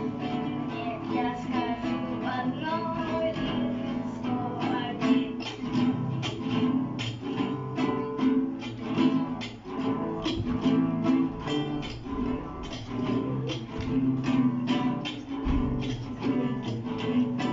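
Guitar strummed in a steady, even rhythm: an instrumental stretch of a live rock song cover with no singing.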